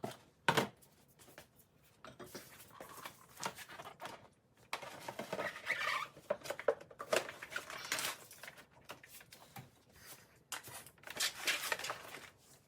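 Irregular knocks, clicks and scraping as a small tank water heater is handled and set back into the cabinet under a sink, with one sharp knock about half a second in.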